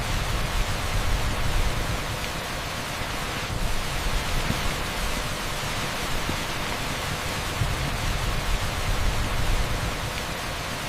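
Torrential rain pouring onto an asphalt street: a dense, steady hiss with a fluttering low rumble underneath.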